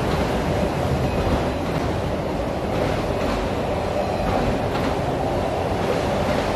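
Long freight train of autorack cars rolling past at speed: a steady rumble of steel wheels on rail, with a few faint clicks.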